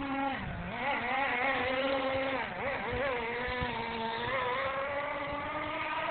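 Radio-controlled monster truck's motor running and whining, its pitch rising and falling as the throttle is worked, with a dip about halfway through before steadying.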